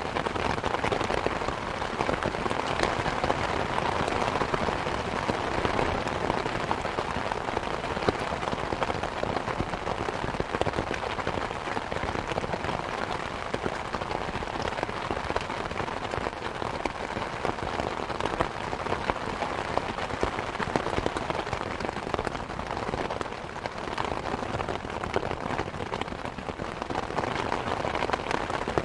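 Steady rain falling, mixed with a wood fire crackling with frequent small pops and snaps.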